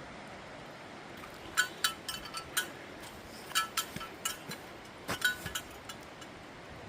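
Bear bells jingling as they swing while walking: three brief clusters of bright rings about a second and a half apart, over a steady hiss of light rain.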